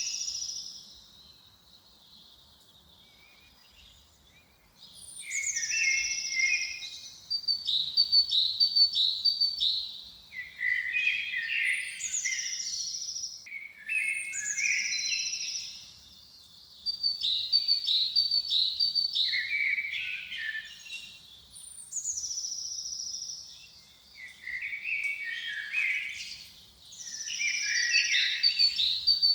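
A songbird singing repeated phrases of a couple of seconds each, every one opening with a high falling whistle and running on into quick notes, with short pauses between phrases and a longer pause about a second in.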